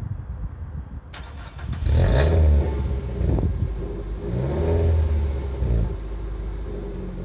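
Nissan Qashqai 1.6 16v four-cylinder petrol engine starting through a new aftermarket exhaust back box. It catches about a second in and its revs rise, then rise and fall once more before it settles into a steady idle. A quiet start with a light burble from the exhaust.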